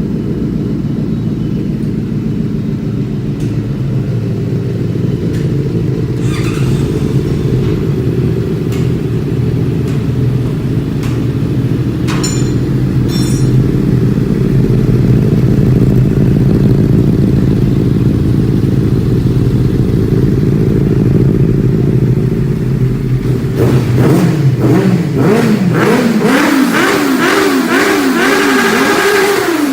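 Motorcycle engine and exhaust idling with a steady low rumble. In the last several seconds the throttle is blipped again and again, the pitch rising and falling in quick revs.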